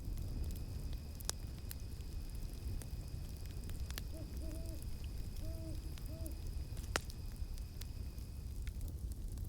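Campfire crackling with sharp pops, the loudest about seven seconds in, over a low rumble of flames. An owl hoots four times in the middle. A steady high cicada drone sounds underneath and stops near the end.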